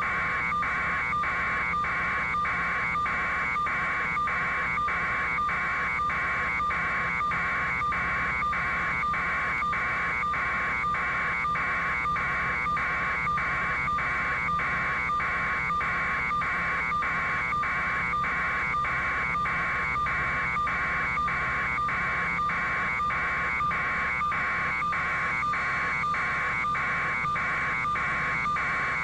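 Electronic alarm buzzing in rapid, evenly repeated pulses, a little under two a second, over a low steady hum.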